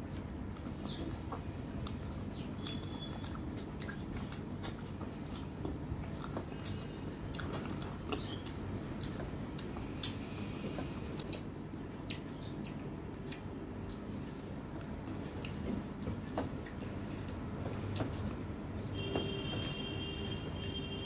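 Close-miked eating sounds of rice and mutton curry eaten by hand: chewing, wet mouth smacks and many small sharp clicks, over a steady low hum. A faint high tone sounds for about two seconds near the end.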